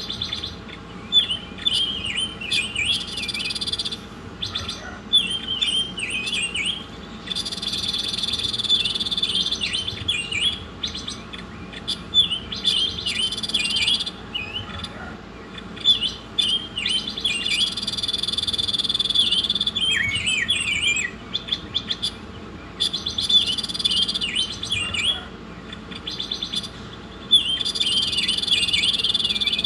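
A small songbird singing a repeating song: a steady high-pitched trill lasting two or three seconds, then a run of quick chirps, the cycle coming round about every six seconds.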